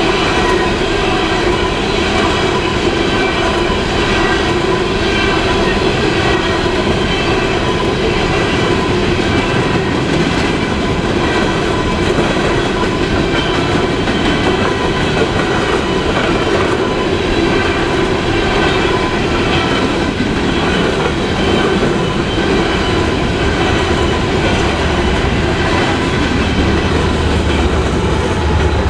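Freight train cars rolling past at close range: a steady, loud wheel-and-rail rumble with thin, steady high ringing tones from the wheels over it.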